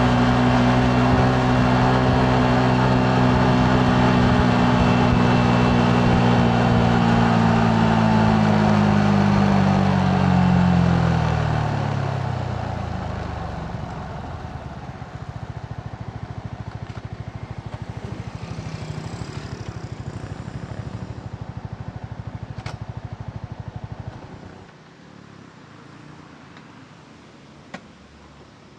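Yamaha MT-15's single-cylinder engine running steadily at cruising revs, then dropping in pitch as the bike slows to a lumpy idle. It idles for several seconds and is switched off about 24 seconds in, followed by a single faint click.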